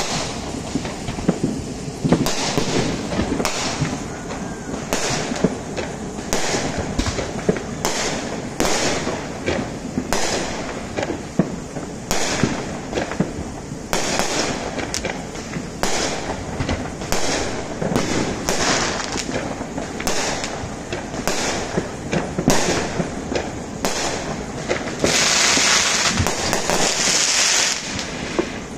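Neighbourhood fireworks going off one after another: many sharp bangs and pops, often several in quick succession, over a low rumble. Near the end comes a louder hissing burst lasting about three seconds.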